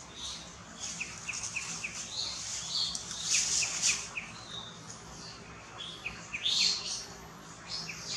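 Wild birds chirping: several quick runs of three or four short, falling chirps, with bursts of higher twittering between them.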